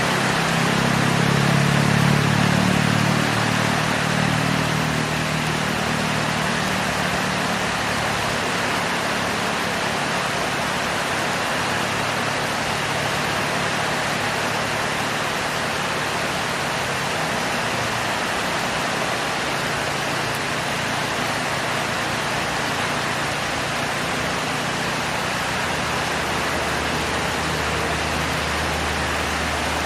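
Heavy rain falling steadily as an even downpour hiss. A low hum swells in the first few seconds and fades away by about eight seconds in.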